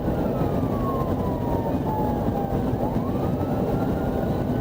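Emergency-vehicle siren in a slow wail, falling in pitch over a couple of seconds and then rising again, over steady vehicle and road rumble.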